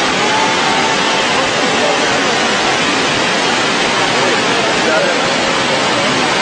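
Floodwater rushing, a loud, steady, unbroken hiss of fast-flowing water.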